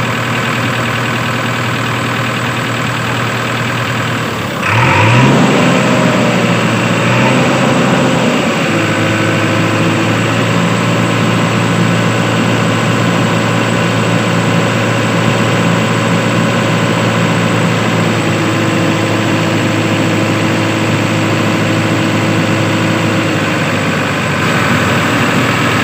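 Tractor engine sound running steadily, with a short rev and a jump in loudness about five seconds in.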